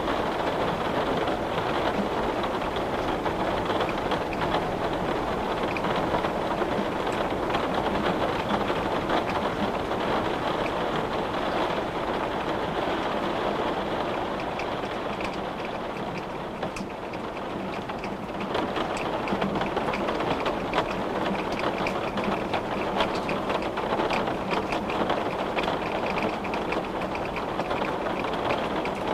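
Steady rain with a dense patter of drops on a window, easing a little about halfway through before picking up again.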